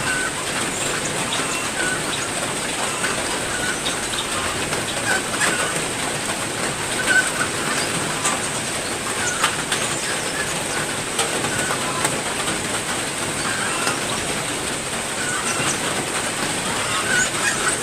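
Steady heavy rain, with small caged songbirds chirping briefly every second or so.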